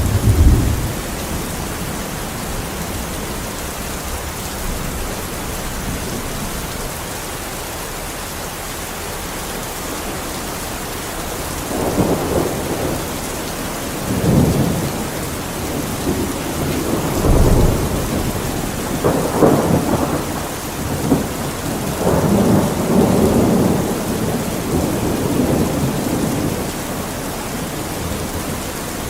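Steady rain with a thunderstorm: an even hiss of rain throughout, and thunder rolling again and again in the second half, from about twelve seconds in until near the end.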